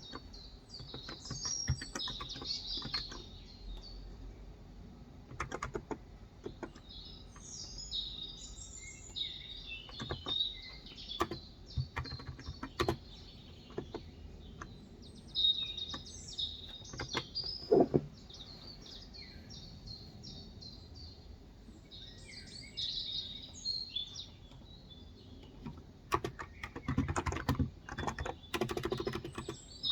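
Typing on a Cox Endeavor electro-capacitive tenkeyless keyboard with 35 g switches: soft keystrokes in bursts with pauses between them, and one louder knock a little past halfway. Birds chirp steadily in the background.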